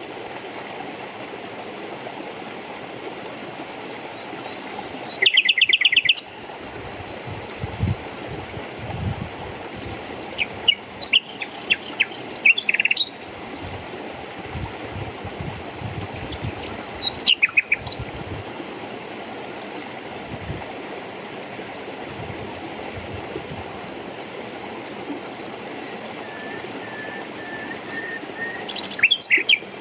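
Songbirds calling over the steady rush of running water. Four bursts of quick trilled chirps come and go, the last opening with a row of short, even notes before another rapid trill near the end.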